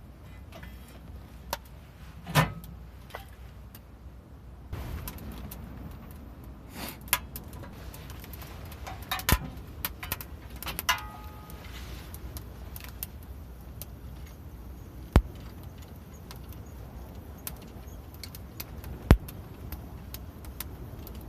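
Scattered metallic clinks and knocks of steel parts being handled, a few sharp loud ones, one leaving a brief ring, over a steady low background hiss.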